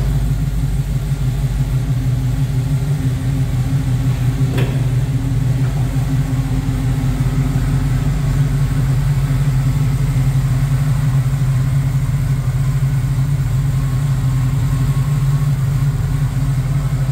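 1970 Chevrolet Camaro engine idling steadily just after a cold start. A faint short tap sounds about four and a half seconds in.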